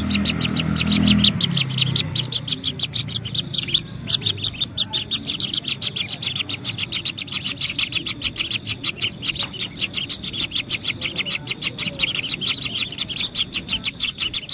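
A bird calling in a fast, steady train of short, high chirps, about six or seven a second, with a low rumble that fades out in the first second or two.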